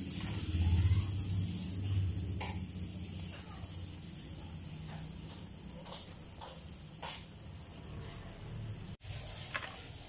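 Small crabs deep-frying in hot oil in a wok, a steady sizzle. A metal ladle clicks against the wok a few times as the crabs are stirred and scooped out.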